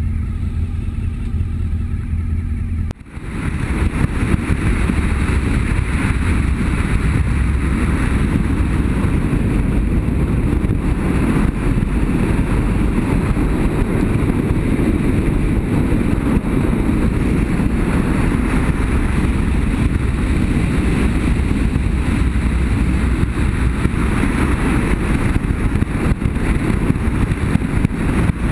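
BMW F800GS parallel-twin motorcycle on the move: engine running steadily under a rush of wind on the microphone. A brief dip about three seconds in, after which the riding noise is louder and even.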